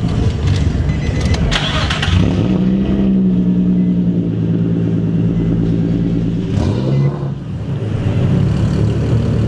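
Car engine running and revving: it holds a steady pitch for a few seconds, rises briefly about two-thirds of the way through, then drops back to a lower rumble.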